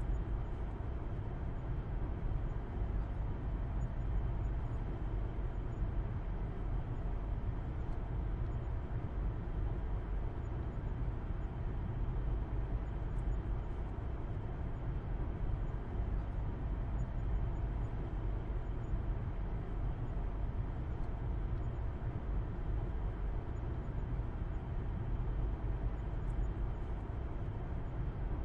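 Steady low rumble of a car driving at a constant speed: engine hum and tyre and road noise, heard from inside the cabin.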